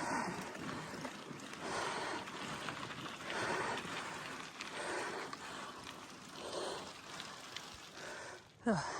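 Gravel bike riding over a wet, muddy road: tyre and wind noise on the microphone, swelling and fading about every second and a half.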